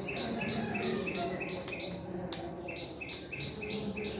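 A bird calling in a fast, steady series of short two-note chirps, a lower note then a higher one, repeated about two to three times a second with a brief break past the middle. Two sharp clicks sound about halfway through.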